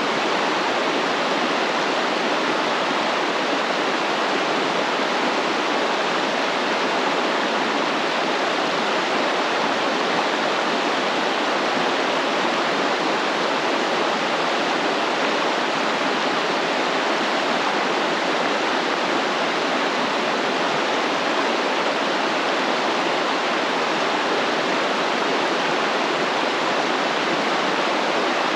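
A stream flowing steadily, a continuous even rush of water with no change in level.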